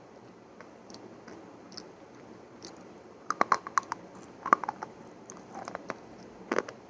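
Close-miked crunchy chewing: faint small mouth clicks for the first few seconds, then a quick run of sharp crunches about halfway through, and another crunch near the end.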